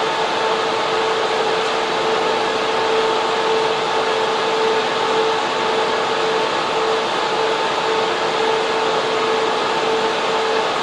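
Data center server room: loud, steady rushing of server and air-cooling fans, with a steady hum at two pitches running under it.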